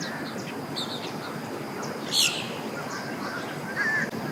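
Several wild birds calling over a steady background hiss: short high chirps repeating, one louder sweeping call about two seconds in, and a brief warbled note near the end.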